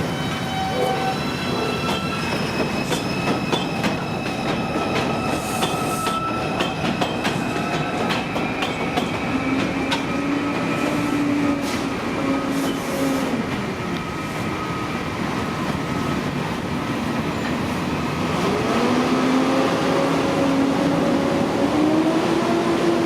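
R142 subway train running through the station: a steady rumble with clicks of the wheels over rail joints and the whine of its traction motors. The motor whine rises in pitch near the end as the train gathers speed.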